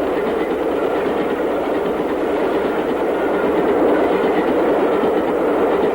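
Train hauled by a Stanier steam locomotive running steadily on the main line, a loud, even noise of the moving train with no breaks.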